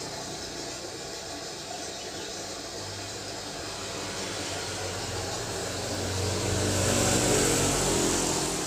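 A motor vehicle's engine and tyre noise growing louder as it approaches and passes, loudest about seven seconds in, over steady traffic background.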